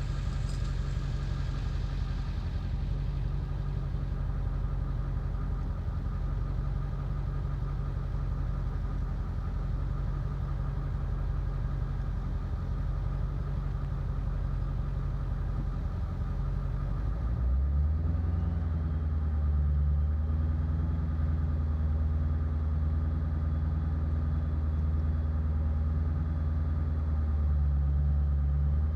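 Ford 7.3 Powerstroke V8 turbo diesel idling rough, still running poorly after its ICP sensor was replaced. A little over halfway through, the running note deepens and grows slightly louder.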